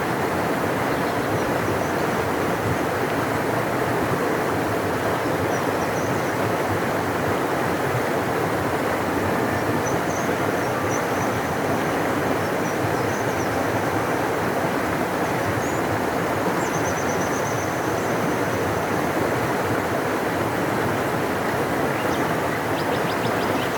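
Large river flowing: a steady, deep rush of water without let-up, with faint high chirps now and then.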